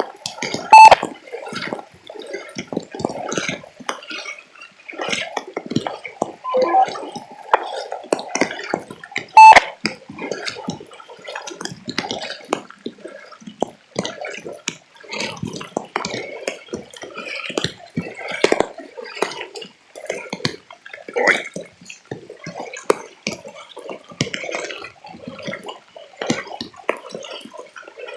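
Floodwater splashing and sloshing in an irregular run of short splashes, with two sharp, loud knocks about a second in and again about nine and a half seconds in.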